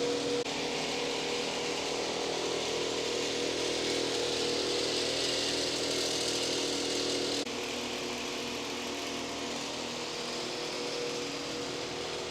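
A steady machine drone with a hiss and a low hum, dropping abruptly in level about seven seconds in.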